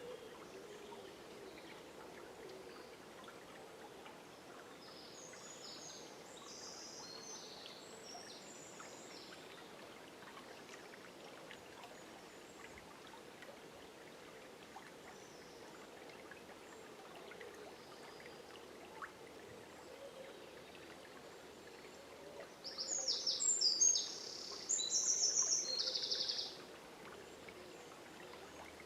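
A river flowing steadily, with birdsong over it: a bird sings faintly about five seconds in, and near the end a louder bird sings two short phrases of rapid, high trilled notes.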